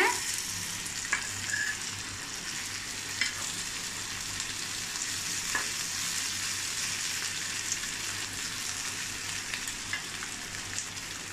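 Spice-coated taro root (seppankilangu) pieces sizzling steadily as they shallow-fry in oil in a kadai. A steel spatula scrapes and clicks against the pan a few times as the pieces are turned.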